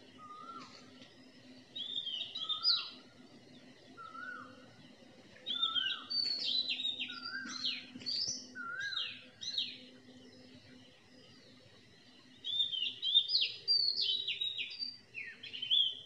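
Birds singing: a short rising whistle repeats about every second and a half, while quick, higher chirping phrases come in bursts, loudest in the middle and near the end. A faint steady low hum sits underneath.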